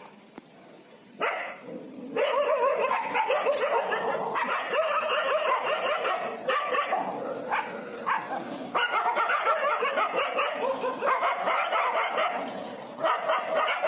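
Dogs barking in rapid, almost unbroken volleys, starting about a second in. It is aggressive barking from dogs chasing people and trying to bite them.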